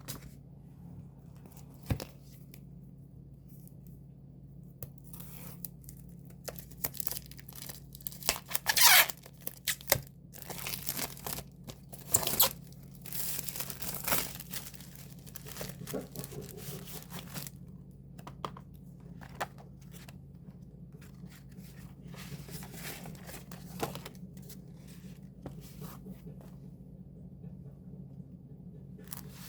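Plastic wrapping being torn and crinkled as an album package is unsealed, in scattered sudden rustles with the loudest bursts about a third of the way in.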